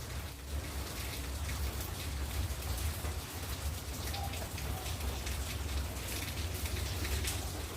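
Steady rain falling, with many individual drops ticking and splashing over a low rumble.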